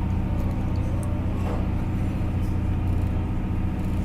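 A boat's engine running with a steady low drone, heard from aboard.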